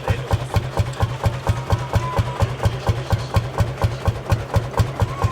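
Lanz Bulldog tractor's single-cylinder two-stroke hot-bulb engine idling slowly, with even, heavy beats about four to five times a second. A faint wavering high tone comes in briefly about two seconds in and again near the end.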